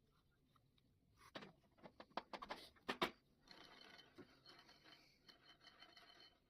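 A quick run of light clicks and knocks, the loudest about three seconds in, followed by faint scratching and light ticking.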